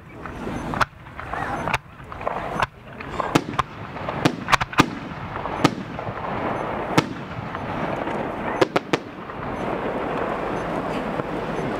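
Aerial fireworks shells bursting in a quick, uneven series of sharp reports, a dozen or so over the first nine seconds, several coming close together about four to five seconds in, with a steady wash of noise between them.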